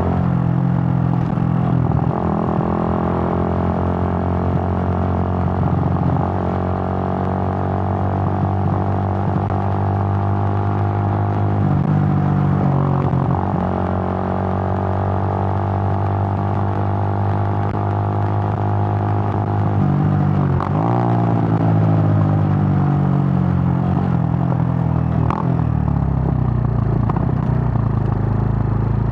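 Suzuki GN125's single-cylinder four-stroke engine running on the move, heard from the rider's position; its pitch rises and falls several times.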